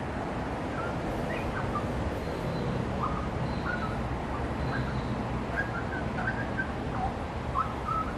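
A bird giving a series of short whistled notes, scattered singly and in quick pairs, over a steady low rumble of outdoor background noise.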